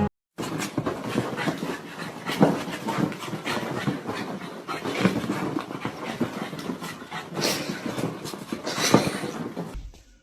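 Dog panting, with quick, irregular breaths.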